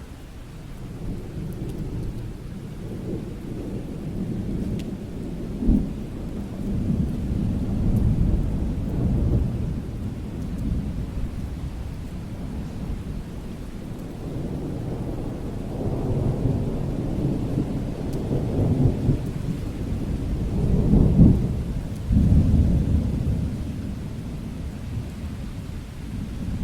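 Thunder rumbling in several rolling waves over steady rain, with a short sharper clap about six seconds in and the loudest rumbles near the end.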